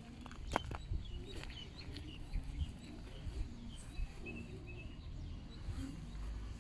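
Birds chirping with short, repeated calls over a steady low outdoor rumble, with a few sharp clicks near the start.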